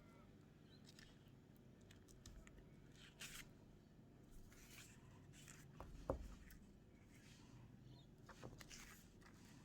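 Faint paper handling: several soft rustles and swishes of paper, with one light knock about six seconds in.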